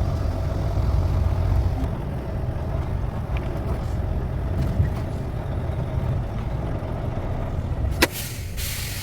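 Semi truck's diesel engine running steadily at low speed. Near the end a sharp click and a short hiss of released air from the air brakes.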